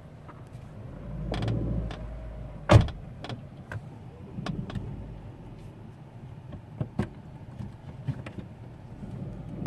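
Squeaking and clicking from the front passenger door of a Daewoo Gentra, heard inside the cabin over a low rumble, with a sharp knock about three seconds in. The cause of the squeak is unknown to the owner.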